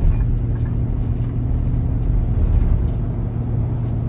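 Steady low engine and road drone inside the cab of a moving truck.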